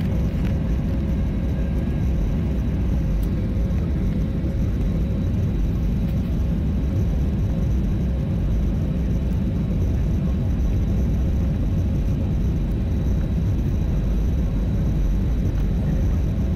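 Airliner engines and airflow heard from inside the passenger cabin: a steady, loud low rumble with a faint steady hum above it.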